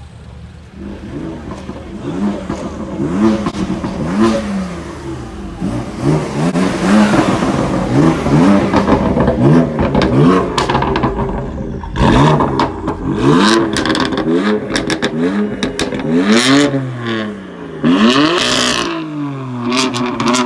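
A performance car's engine revved hard again and again, the pitch shooting up and dropping back about once a second. Sharp crackles and pops come from the exhaust between revs, most of them in the second half.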